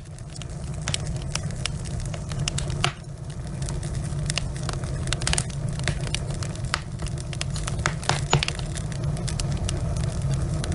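Logs burning in a fireplace, crackling: irregular sharp pops and snaps over a steady low rumble.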